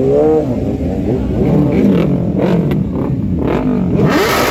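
Superbike engines revving, their pitch rising and falling, with a few sharp cracks in the middle and a loud burst of noise near the end.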